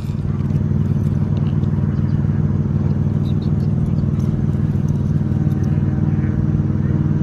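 A steady low mechanical hum, like an engine idling.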